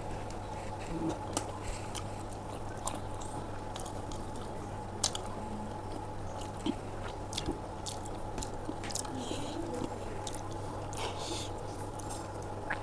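A person chewing and biting food at close range, with scattered small clicks of the mouth. A steady low hum runs behind it.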